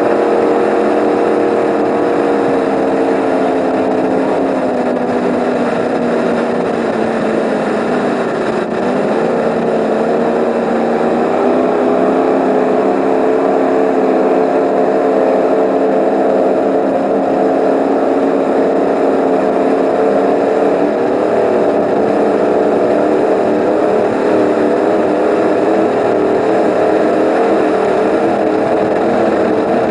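36-foot Eliminator powerboat's engines running hard at speed, a steady loud drone whose pitch sags briefly about eight seconds in, then climbs back up and holds.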